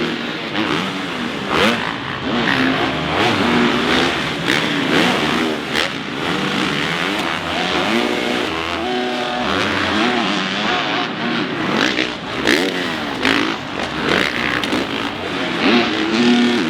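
Supercross dirt bike engines on the track, revving up and dropping off over and over as the riders work the throttle.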